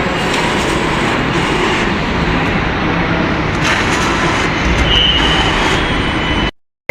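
Train running through the rail station, a steady noise that cuts off suddenly near the end.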